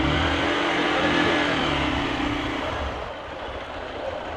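A road vehicle's engine pulling away under throttle, strongest for the first two and a half seconds, then fading.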